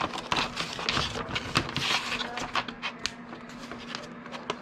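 Sheet of paper rustling and crinkling as it is folded and creased by hand, with many quick crisp crackles and taps, busier in the first couple of seconds and sparser after.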